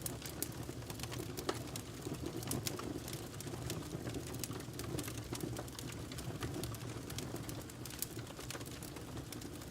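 Burning logs crackling in a fireplace: frequent irregular sharp pops and snaps over a steady low rush of the flames.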